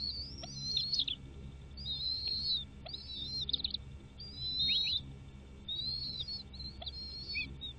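A bird calling over and over: high chirping calls, each a short rising sweep ending in quick downward slurs, about one a second.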